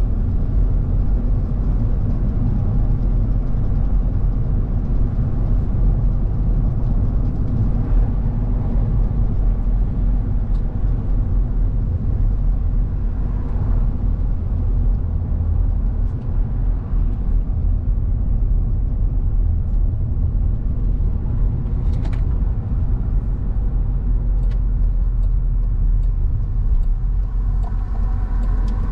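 Steady low rumble of a car driving along the road, engine and tyre noise together, with a few faint ticks in the last seconds.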